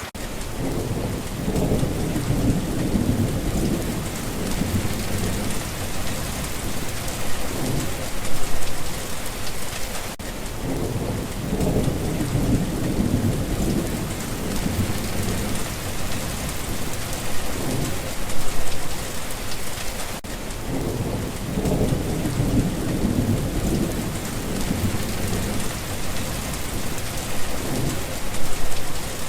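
Steady rain with low rolling thunder that swells and fades three times, about every ten seconds.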